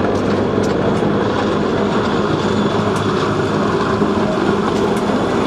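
Train running along the track: a steady rumble and low hum with a few sharp clicks from the wheels.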